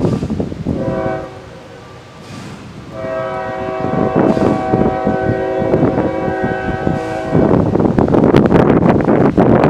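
Lead locomotive's air horn on a loaded CSX coal train: a short blast about a second in, then a long blast of several notes sounding together as a chord for about four seconds. Near the end a loud, even rushing noise takes over as the horn stops.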